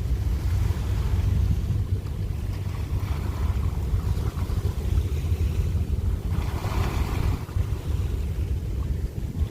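Wind buffeting the microphone in a heavy, uneven low rumble over sea waves washing against a rocky shore, with a louder rush of surf a little past halfway.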